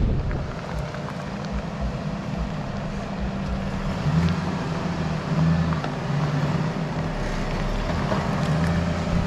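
Ford Crown Victoria's V8 running low and slow as it crawls over rocks, the engine note swelling a few times as the throttle is pressed. A few stones crunch and click under the tyres.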